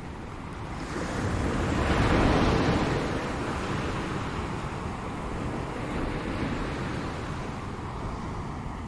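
Ocean surf: a wave breaks and swells to its loudest about two seconds in, then eases into a steady wash of foam, over a constant low rumble.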